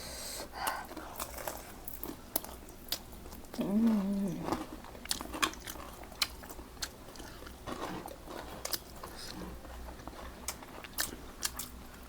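Close-up eating sounds: chewing and biting with crunches and many small wet clicks and smacks of the mouth. About four seconds in comes one short hummed voice sound.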